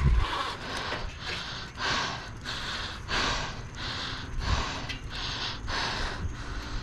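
A cyclist breathing hard and fast, quick rhythmic breaths in and out from heavy exertion during a hard ride.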